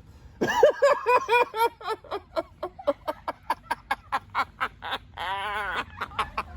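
A man laughing: a few voiced "ha" syllables, then a long run of quick breathy chuckles, with a drawn-out wavering laugh sound about five seconds in.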